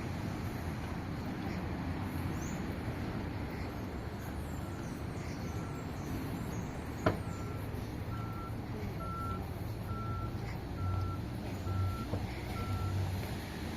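Electronic warning beeper sounding a short high beep roughly once a second, starting about four and a half seconds in, over a steady low rumble, with one sharp click about halfway through.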